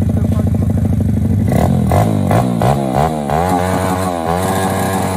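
Pit bike engine idling, then revved in quick repeated blips from about a second and a half in, its pitch rising and falling about twice a second.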